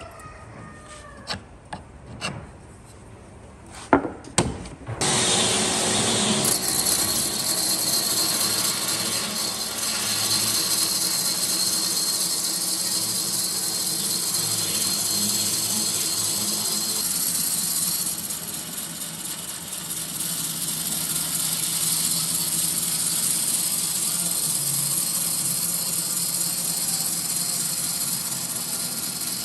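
A few sharp knocks, then about five seconds in a power tool starts cutting or abrading wood and runs steadily on.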